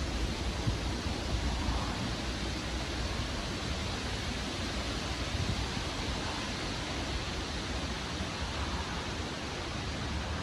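Strong wind blowing steadily in a storm, a continuous rushing noise, with an uneven low rumble of wind buffeting the microphone that is heaviest in the first couple of seconds.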